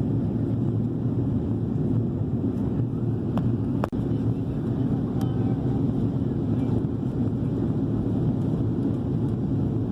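Steady low drone of an Airbus A330 airliner heard from inside the passenger cabin during descent: engine and airflow noise. Two brief faint clicks come about three and a half seconds in.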